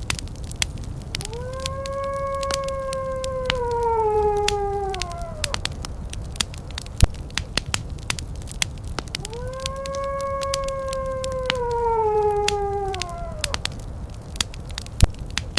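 Wood fire crackling with frequent small pops over a low rumble, while a long howl sounds twice, each about four seconds, held steady and then sliding down in pitch at the end.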